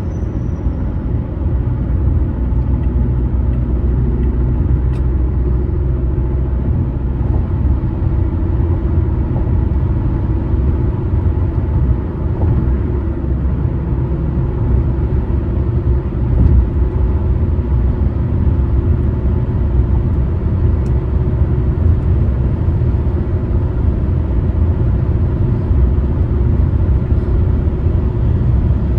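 Steady road noise of a car driving on a highway: a low, even rumble of tyres and engine without a break.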